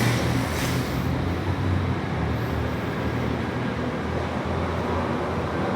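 Steady rushing of a fast-flowing river swollen by heavy rain, a constant noise over a low rumble.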